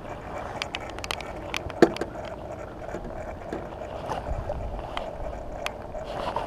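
Steady hiss of rain falling on the water and the small boat, with scattered light clicks and taps from handling the fish and line, and a brief squeak about two seconds in.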